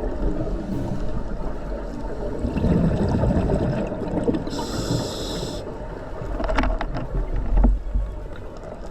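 Scuba diver breathing through a regulator underwater: a hissing inhalation about five seconds in, with bubbling and rumbling from exhaled air around it.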